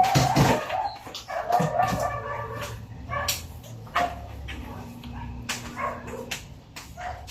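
A household pet's vocal calls: a few short pitched cries in the first two seconds, among scattered clicks and knocks.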